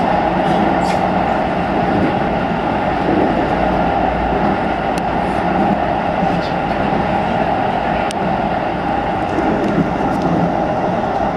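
Keikyu New 1000 series electric train running at speed, heard from inside the car: a steady running noise with a few light clicks from the wheels and track.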